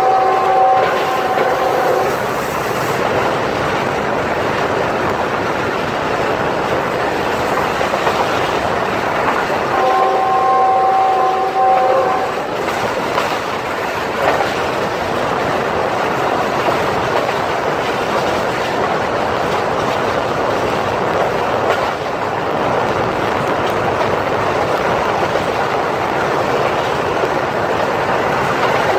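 Passenger train running at speed, its coach wheels rumbling steadily on the rails. The hauling GE U20C diesel-electric locomotive's multi-tone horn sounds a chord at the start, stopping about two seconds in, and again for about two seconds around ten seconds in.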